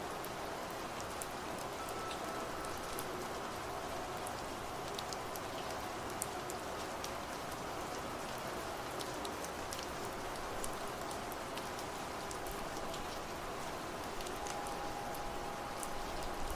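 Steady rain falling on a surface, with scattered single drops ticking through it. A faint ringing wind-chime tone comes in near the end.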